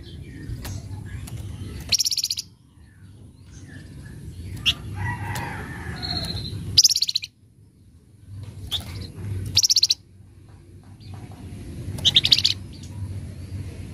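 Flamboyan bird (wergan Jawa) giving short, harsh, rapid chattering calls ('crewet kasar'), four bursts a few seconds apart, over a steady low hum.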